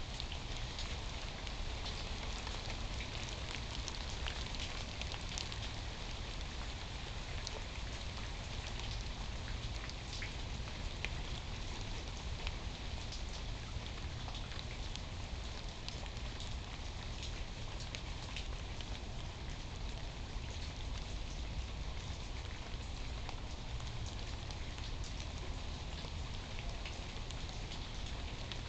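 Steady rain falling, with many individual drops ticking sharply close by over an even hiss, and a steady low rumble underneath.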